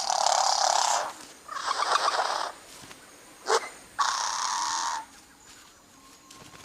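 A bird's harsh, wheezy rasping calls: three of about a second each, with one short sharp note between the second and third.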